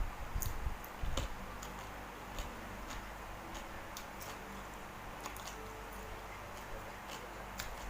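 Faint, irregular light clicks and ticks, roughly one or two a second, over a low steady hum.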